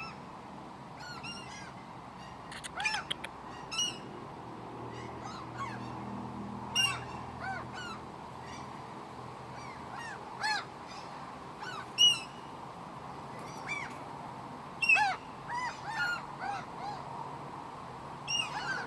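Seagulls calling over and over in short, arched cries, several in quick runs, the loudest about twelve and fifteen seconds in, over a steady background hiss.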